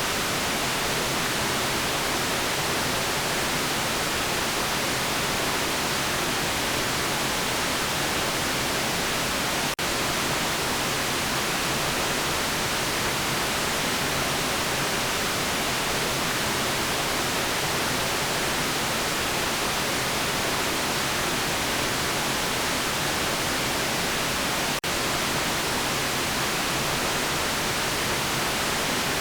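Steady synthetic white noise, an even hiss strongest in the highs, dipping for an instant twice.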